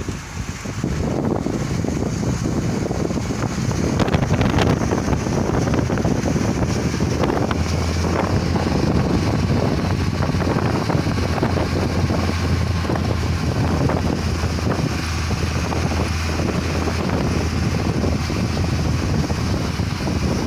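Wind rushing and buffeting over the microphone, with a steady low hum joining about seven seconds in.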